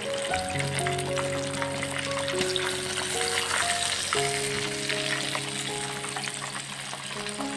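Food frying in a hot pan, a steady crackling sizzle, with background music playing over it.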